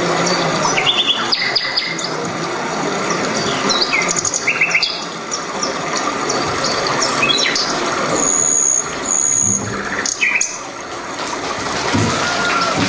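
Birdsong: a busy run of quick high chirps and trills, with two longer high whistles a little past the middle, over a steady hiss of background noise.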